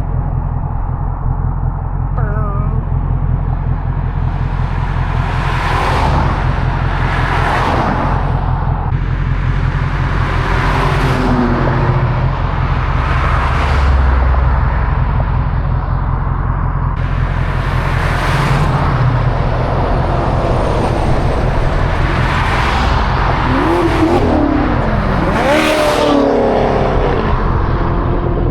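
Car driving on a road: a steady low engine and road drone, with other vehicles whooshing past about ten times.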